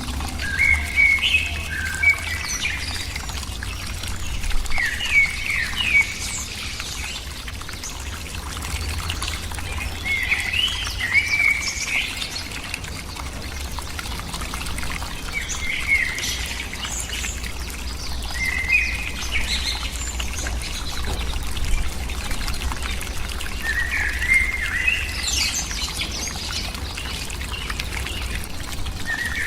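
A bird calling in short chirping phrases, repeated every few seconds, over a low steady rumble.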